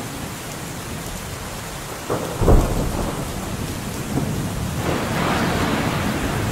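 Steady rain falling during a thunderstorm, with a sharp thunderclap about two seconds in that breaks into a loud deep boom, then a longer rolling rumble of thunder near the end.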